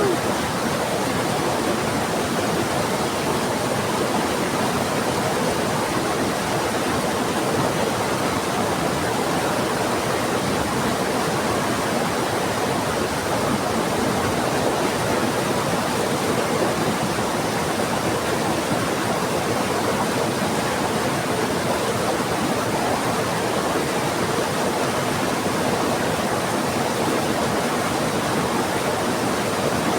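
Steady rush of a fast-flowing river mixed with heavy rain, a constant even wash of water noise.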